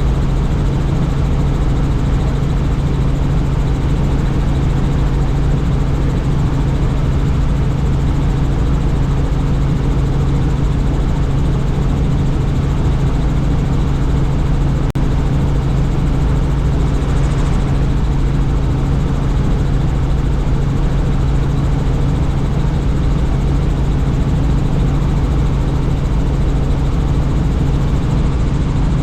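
Helicopter in flight heard from on board: steady rotor and engine noise with a strong low hum.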